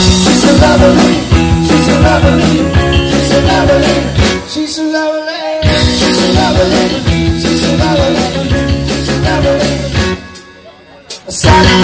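Loud rock music with a driving drum beat. The low end drops out briefly about four and a half seconds in, and the music falls quieter for about a second near the end before the drums come back in.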